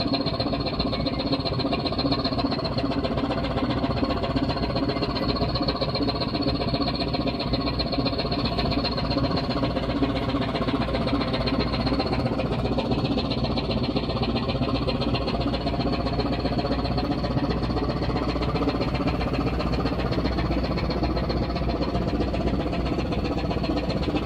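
A ship's diesel engine running steadily, with a fast, even knocking beat.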